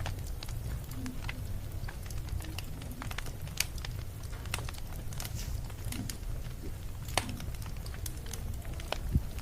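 Wood fire crackling, with irregular sharp pops over a steady low rumble; the strongest pops come about three and a half, seven and nine seconds in.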